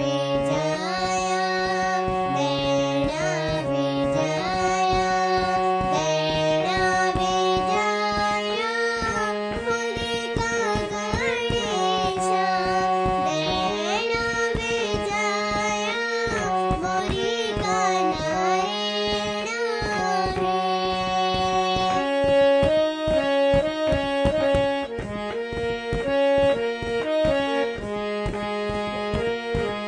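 A young girl singing a Garhwali devotional song to Ganesh over a harmonium and a steady hand-drum beat. About twenty-two seconds in, the voice stops and the harmonium and drum carry on alone.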